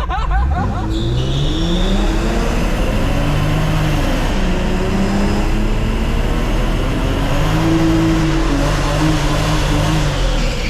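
Car engine revving up and holding at higher revs, dropping back about four seconds in, then revving up and holding again before falling back near the end.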